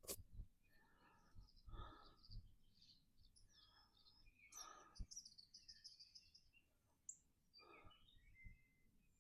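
Faint bird calls and chirps, several short high notes and a few brief calls scattered through the quiet.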